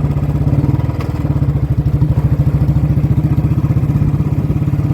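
Royal Enfield Bullet 350 single-cylinder engine running through a loud exhaust while riding, a steady rapid thump at even speed.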